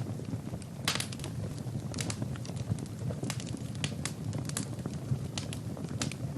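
Wood fire burning in a fireplace: burning logs crackling and popping irregularly, with a denser burst of crackles about a second in, over the steady low sound of the flames.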